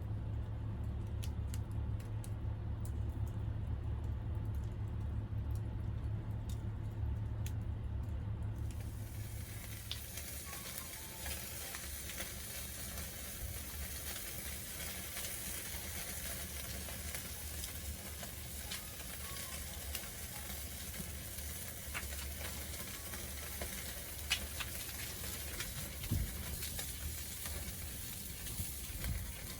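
Pacific saury sizzling as they grill over a wood fire, an even hiss with scattered sharp crackles. For the first eight seconds or so there is instead a low rumble with a few pops, and the sizzling sets in about nine seconds in.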